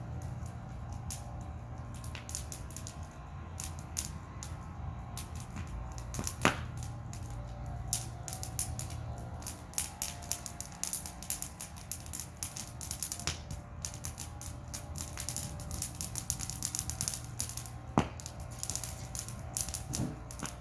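Wood fire crackling and popping, with frequent small snaps and a few loud pops, over a steady low rumble.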